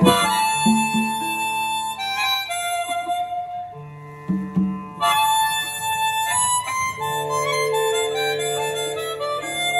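Harmonica playing a melody of held notes with a live band, opening a long jam.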